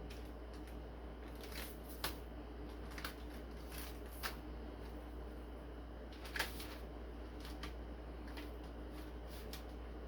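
Hands rubbing dry barbecue rub into raw country-style pork ribs: soft, scattered rustling with light taps and a few sharper clicks, over a steady low hum.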